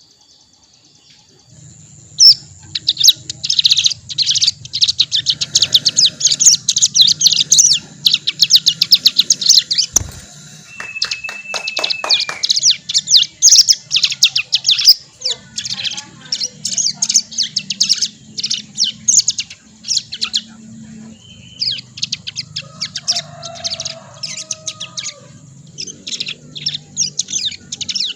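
Young male ciblek gunung (cigun), a prinia, twittering in long runs of very fast high-pitched chips and rattles, starting about a second and a half in. This is juvenile 'ngriwik' babbling with practice of the rapid-fire 'bren AK47' burst, and ngriwik marks the bird as a male.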